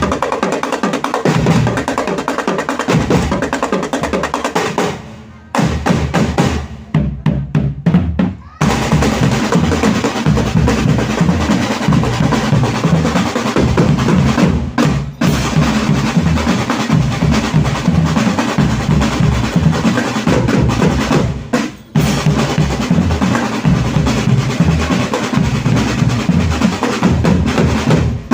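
Loud drum-led music of the kind that accompanies a Can-Macanan tiger dance: dense, driving drumming that thins to a run of quick separate strokes, like a drum roll, about five seconds in, then resumes at full pace.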